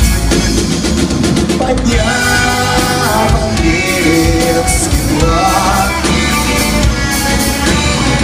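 Rock band playing live, loud and steady, with a voice singing over the band.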